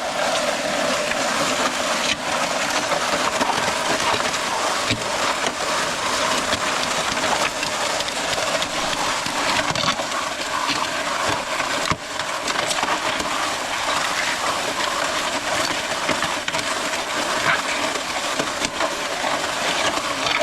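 MudMixer concrete mixer running steadily, its auger churning wet concrete with a continuous rattle of gravel and small knocks of stones.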